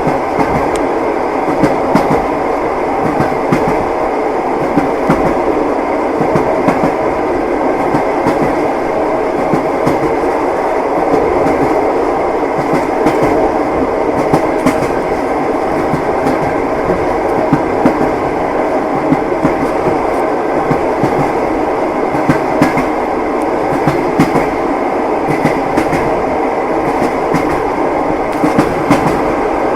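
Passenger train carriage rolling along, its wheels clacking over the rail joints at uneven intervals over a steady rumble.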